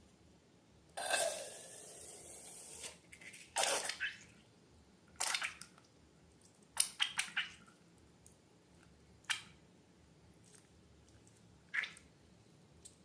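Slime being handled in short bouts of wet squishes, clicks and plops, with a noisy rush lasting about two seconds a second in and a quick cluster of squishes near the middle.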